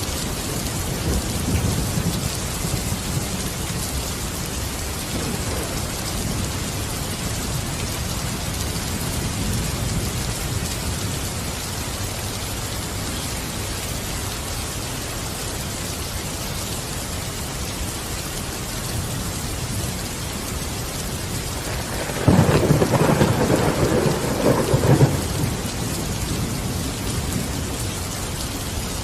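Steady heavy rain with thunder: low rumbles early on give way to a louder crack-and-rumble of thunder lasting about three seconds, starting a little over 22 seconds in.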